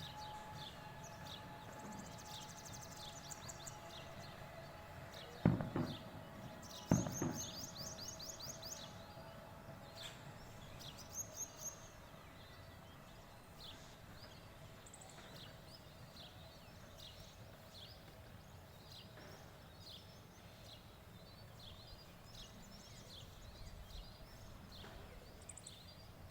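Birds chirping and trilling steadily, many short high calls repeated throughout. Two loud thumps come about five and a half and seven seconds in.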